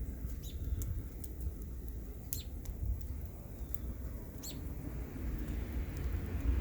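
Wood fire crackling with scattered sharp pops, over a steady low rumble of wind on the microphone.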